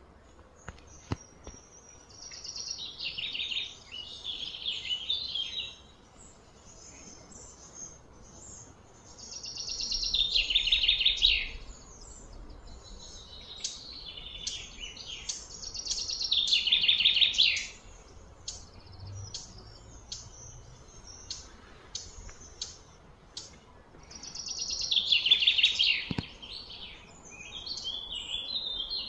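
A bird singing repeatedly: four loud phrases of rapid high notes, each two to three seconds long and coming roughly every seven seconds, with softer chirps in between.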